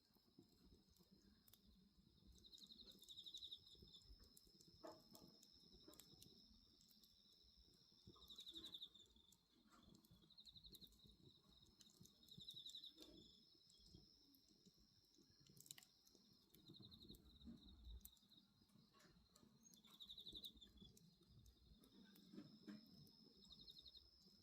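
Faint bonfire crackling with scattered sharp pops, under night insects: a steady high trill with a pulsing chirp repeating about every four seconds.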